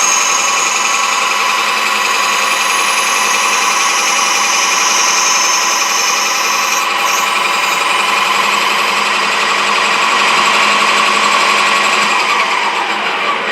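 Metal lathe running under power while turning a Delrin bushing down to size. It gives a loud, steady whine of motor and gears. Near the end the whine falls in pitch and fades as the lathe winds down.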